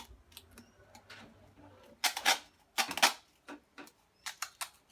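Duct tape being worked over the end of a cardboard toilet roll, giving a few short rasping, crackling handling noises about two seconds in and a run of quicker clicks and crinkles near the end.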